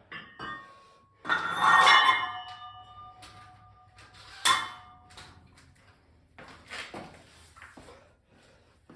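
Loaded barbell clanking against the steel hooks of a squat rack, the plates ringing on for a few seconds: once about a second in as it is lifted off, and again sharply about three seconds later as it is set back, followed by a few lighter knocks.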